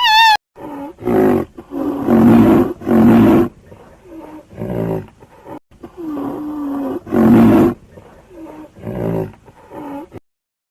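A big cat roaring and growling: a series of deep, rough calls, several short and one longer, drawn-out moan, with short pauses between them.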